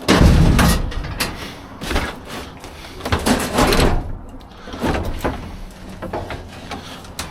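Scrap and junk being shifted and tossed around in a dumpster: a loud bang right at the start, then repeated knocks and clatter about every second.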